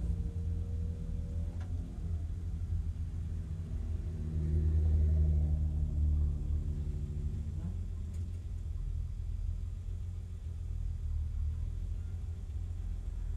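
BMW E30 race car engine idling steadily at about 850 rpm, a low rumble inside the stripped cabin. Other race cars' engines pass close alongside, loudest between about 4 and 7 seconds in.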